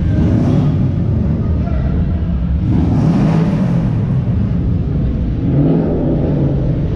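Car engine exhaust rumbling at low speed, its pitch shifting as the throttle moves, with a louder rushing surge about three seconds in.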